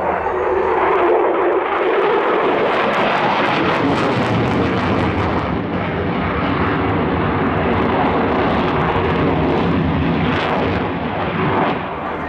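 F-16 fighter jet flying a display, its engine noise loud and continuous, with a falling pitch in the first second as it passes.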